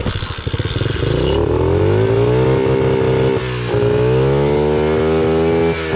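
Pit bike engine restarting after stalling in a deep creek crossing. It fires unevenly for about a second, then catches and revs up, dips briefly about three and a half seconds in, and keeps running fast and steady.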